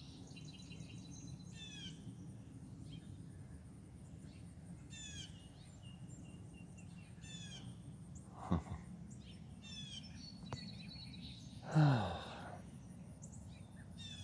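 Songbirds singing: a short phrase of quickly falling high notes, repeated every two to three seconds over a steady low hum. Twice, about eight and twelve seconds in, a louder short sound slides steeply down in pitch; the second is the loudest.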